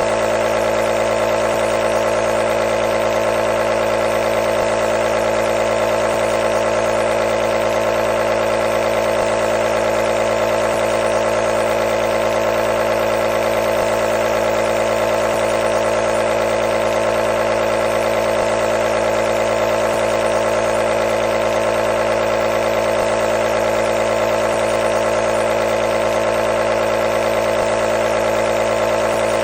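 Compressor nebulizer running steadily, its small motor-driven air pump giving a constant buzzing hum with a hiss of air above it.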